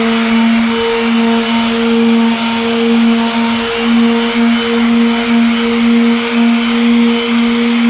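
Electric sander running steadily on a headlight lens: a steady motor hum under a broad sanding hiss, the hum wavering briefly now and then.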